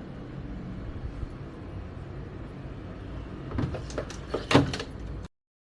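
Washing machine running with a steady low rumble, then a few sharp knocks and clatters between about three and a half and four and a half seconds in. The sound cuts off suddenly near the end.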